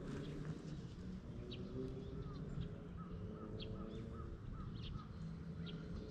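Small birds chirping in the background, with one bird repeating a short call about twice a second in the middle, over a steady low rumble.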